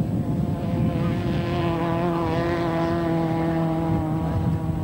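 Race car engine running at a steady pitch, fading near the end.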